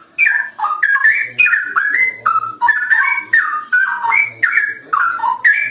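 Straw-headed bulbul (cucak rowo) singing gacor: a loud, fast, unbroken run of rich whistled notes, each gliding up or down, about three to four phrases a second.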